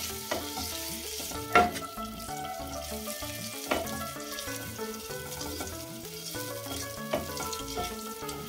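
Boiled eggs frying in a little oil in a nonstick pan on low flame: a steady light sizzle, with a wooden spatula knocking against the pan twice, about a second and a half in and again near four seconds. Background music with a melody plays under it.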